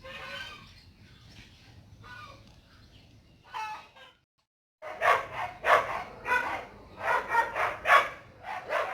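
Chickens calling: faint calls at first, then after a brief silence a run of loud, short calls about two a second.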